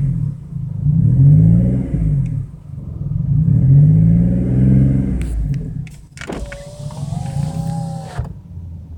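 BMW 335i turbocharged straight-six running rough, its revs rising and falling twice under the throttle; the owners put the roughness down to a misfire on cylinders 4, 5 and 6. About two-thirds of the way through, a wavering squeal starts abruptly and lasts about two seconds.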